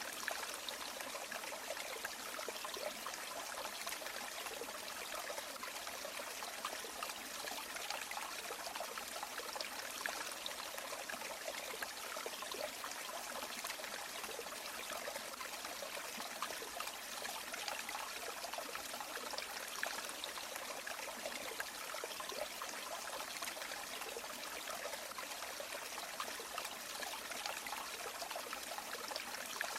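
A river or stream flowing and trickling steadily, a constant even rush of water with small splashing flickers.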